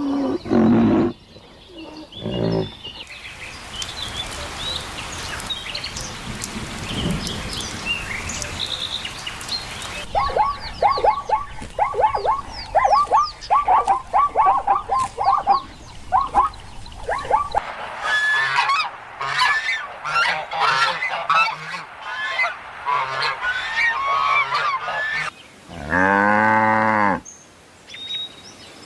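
Geese honking: a quick run of repeated honks, then a stretch of many overlapping calls from several birds. Higher, chirping calls come earlier, and one long, low call sounds near the end.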